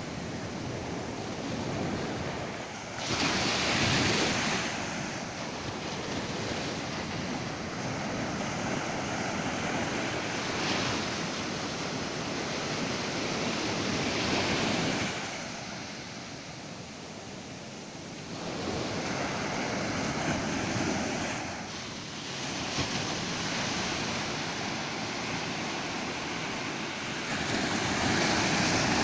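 Ocean surf breaking on a beach, a steady wash that swells as each wave breaks, every few seconds, with a lull in the middle.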